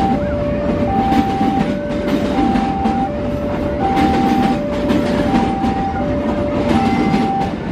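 Passenger train coaches rolling past, with wheel clatter and rumble. Over it, a level-crossing warning alarm sounds in two alternating tones, high then low, each lasting under a second.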